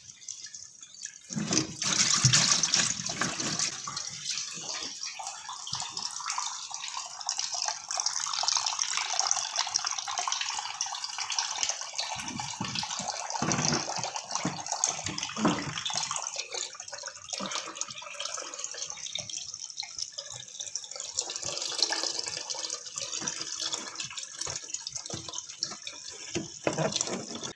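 Water running out of an air cooler's tank through its opened drain outlet. It starts about a second in, is strongest just after, then runs on steadily.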